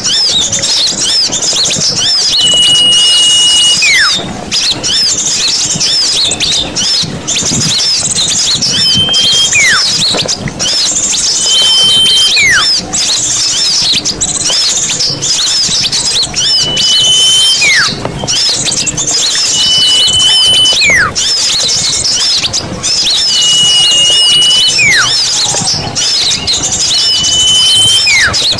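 Small-bird lure recording: a dense chorus of many small birds twittering high and fast, with a repeated call about every three to four seconds, a held high whistle followed by a quick whistle sliding down in pitch.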